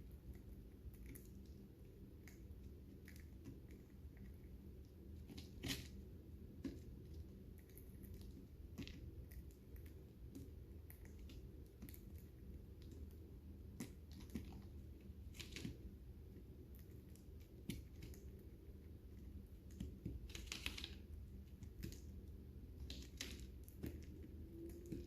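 Lovebirds eating seed: quiet, irregular clicks and crunches of beaks cracking husks, with a few louder crunches scattered through.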